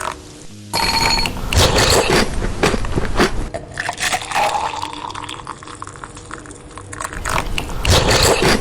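Close-up sounds of chocolate being eaten and handled: a dense run of crackles, clicks and scrapes, loudest after about a second and again near the end.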